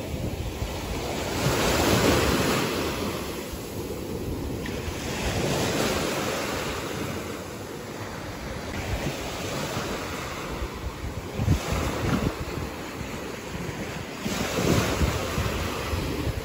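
Sea waves breaking on a beach, the surf swelling and fading about every four seconds, with wind buffeting the microphone.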